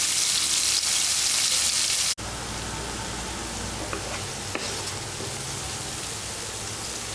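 Coriander, garlic and green chili paste sizzling in hot oil in a pan with whole spices. The loud sizzle cuts off suddenly about two seconds in, then goes on quieter and steady, with a couple of faint ticks.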